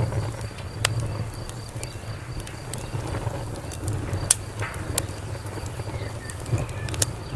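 Wood fire crackling over a low steady rumble of flames, with sharp pops about a second in, around four seconds in, and near the end.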